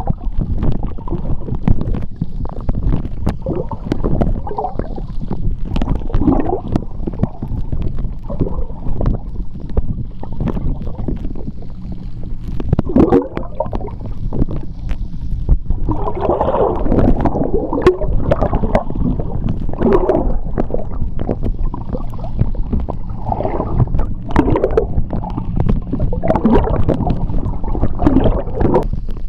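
Underwater sound of seawater: a continuous low churning rumble that swells and fades irregularly, with gurgling bubbles and scattered sharp clicks.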